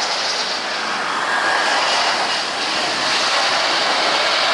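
Jet airliner's engines passing close on landing approach, a steady rushing noise that swells slightly about a second in and holds.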